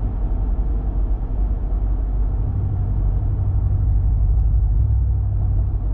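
Muffler-deleted, straight-piped 5.7-litre Hemi V8 of a 2019 Ram 1500 running under light throttle while driving, a steady deep exhaust rumble that swells slightly toward the end.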